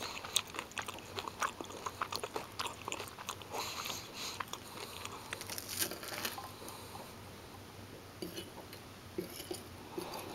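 Close-up crunching and chewing of crispy breaded fish sticks. The crunches come thick and fast for the first six seconds or so, then thin out into softer chewing.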